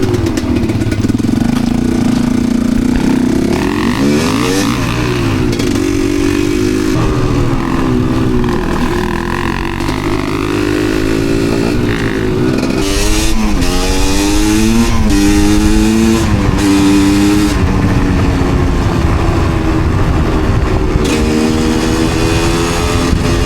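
Enduro dirt-bike engine running under way, its pitch climbing and dropping again and again as the throttle is worked, with several quick rises and falls in the second half.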